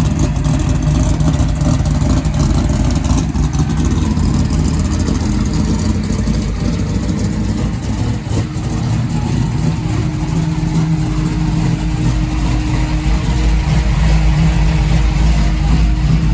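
A car engine running steadily, a loud low drone that cuts in suddenly at the start and holds with small rises and dips in level.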